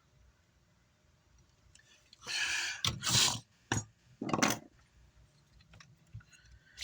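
Handling noise on a workbench: four short scraping, rattling sounds in quick succession, starting about two seconds in.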